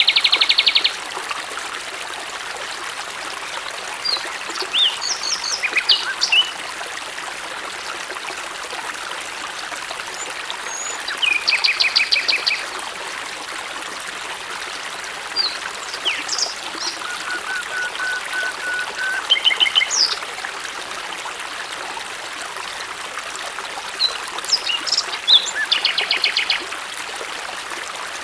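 Small stream running steadily, with wild birds calling over it: a fast trill that comes three times, once just after the start, once midway and once near the end, and scattered chirps and short whistles in between.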